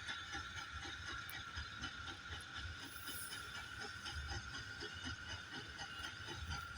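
Steam-hauled goods train of SE&CR O1 No 65 rolling slowly into a station: a low rumble with irregular light knocks from the wagons, over a steady high whine.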